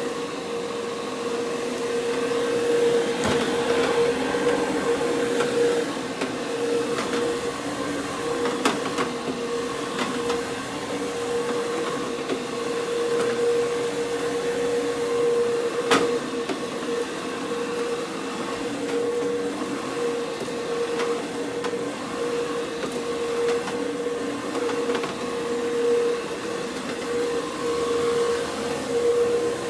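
CRB (counter-rotating brush) carpet-scrubbing machine running steadily, its motor holding a constant hum as the brushes scrub the carpet, with a few sharp knocks, the loudest about halfway through.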